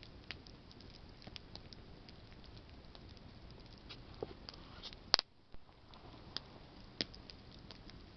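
Campfire of burning branches crackling, with a steady hiss of flame and scattered sharp pops; the loudest pop comes about five seconds in.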